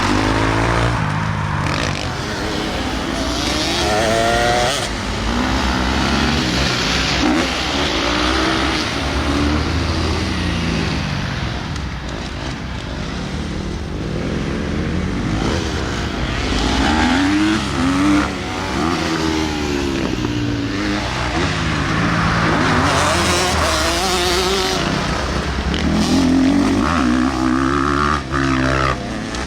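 Motocross bike engine on the gas, its pitch rising and falling again and again as the throttle is opened and shut through the gears.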